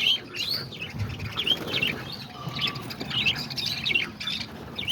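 A flock of parakeets chirping, many short, quick notes overlapping throughout, with a low rustling underneath.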